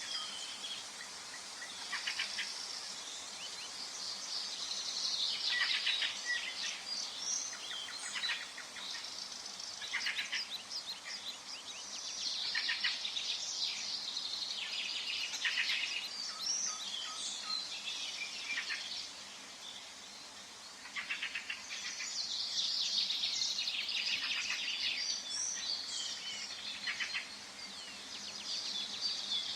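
Forest ambience of several songbirds singing and chirping at once, rapid overlapping trills and chirps over a faint steady hiss, with a brief lull about two-thirds of the way through.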